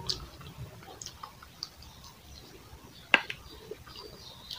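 Close-up mouth sounds of a person eating rice with the hand: wet chewing with small smacks and clicks, and one sharper click a little past three seconds in.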